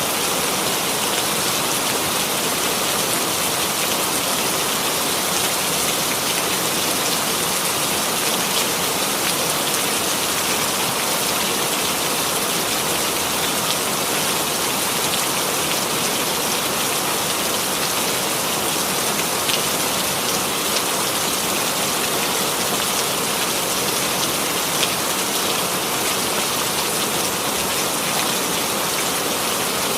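Steady rainfall, a dense even patter of drops falling on a surface.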